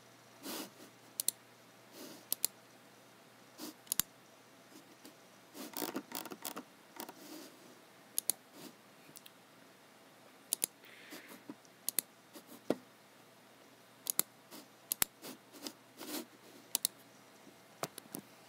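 Computer mouse and keyboard in use: irregular sharp clicks and soft taps with pauses between, including a short run of taps about six seconds in.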